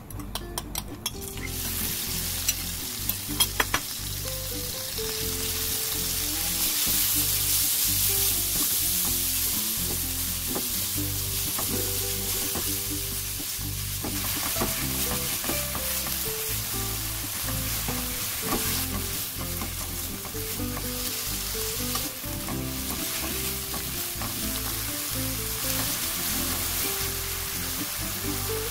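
Soy-marinated minced beef sizzling in hot oil in a nonstick wok as it is stirred with a silicone spatula. The sizzle comes up about a second and a half in and then holds steady, with soft background music underneath.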